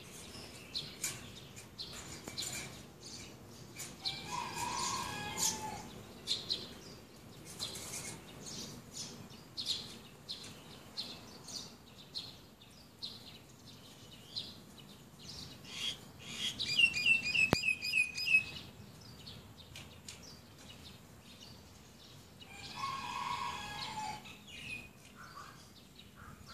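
Birds chirping, with a quick run of repeated high chirps near the middle and two longer, lower calls of about two seconds each, one early and one near the end.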